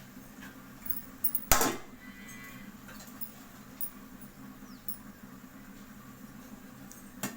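Kitchen handling sounds: one sharp clack about one and a half seconds in and a few lighter clicks, over a low steady hum, as a pot of part-cooked rice is handled before draining.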